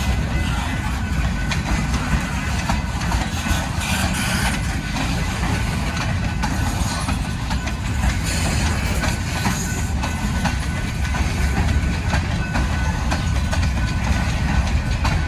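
Train rolling past: a steady low rumble with scattered sharp clicks of wheels and cars.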